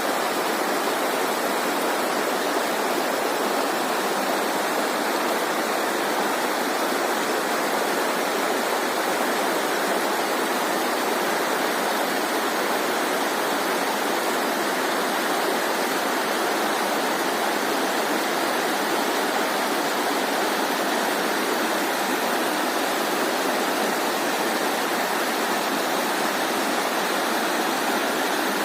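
Running water rushing steadily, an even unbroken hiss with little deep rumble.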